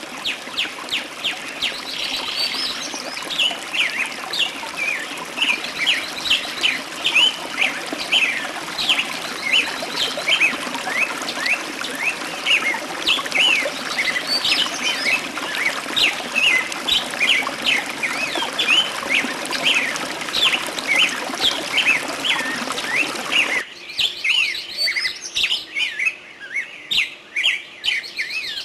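Songbirds chirping: a dense run of short, quick chirps, with a steady rushing hiss underneath that cuts off suddenly near the end, leaving the chirps clearer.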